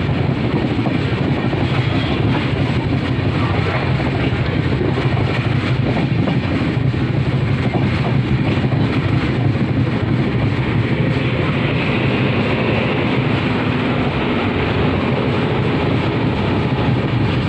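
Passenger train running along the track, heard from an open coach window: a steady, loud rumble of wheels on the rails.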